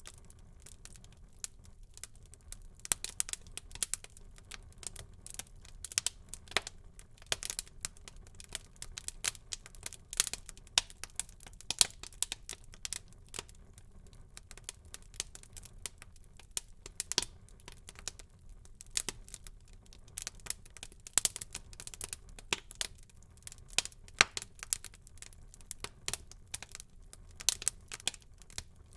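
Wood fire burning in a fireplace, crackling with frequent irregular sharp pops and snaps over a faint low hiss.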